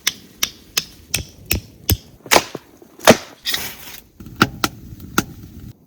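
A series of sharp knocks of a tool striking wood, about three a second at first, then two heavier blows, a brief hiss and three more knocks before the sound cuts off suddenly.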